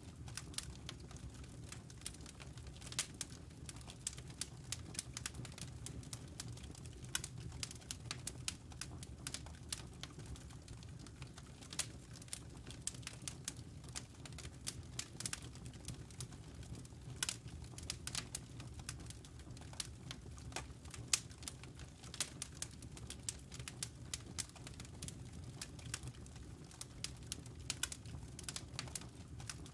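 Campfire burning, with a steady low flame rumble and many irregular sharp crackles and pops from the burning wood.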